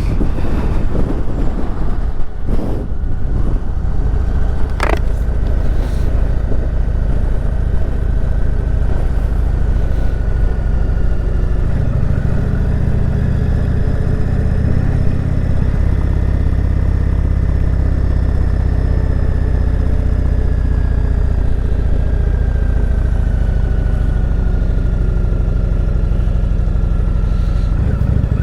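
Indian Chieftain Dark Horse motorcycle's V-twin engine running steadily on the ride down the mountain road. The low rumble gets heavier about twelve seconds in, and two brief clicks come in the first five seconds.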